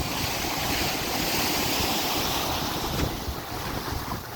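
Surf washing in over the sand, a hiss that swells and then eases off near the end, with wind buffeting the microphone in a low rumble.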